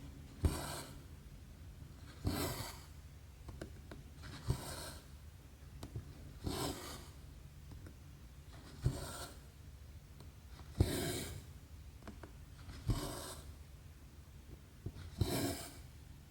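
Cross-stitch thread being pulled through 11-count fabric, stitch after stitch: a tick as the needle goes through, then a short rasping swish of thread drawn taut, eight times at about two-second intervals.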